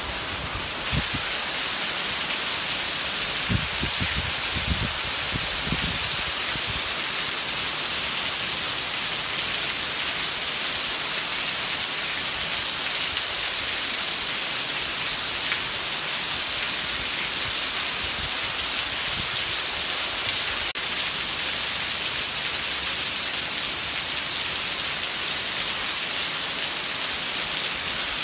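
Heavy tropical-style downpour: a steady hiss of rain, with water pouring off a roof edge and splashing onto a wet tiled terrace. A few dull low thumps come in the first several seconds.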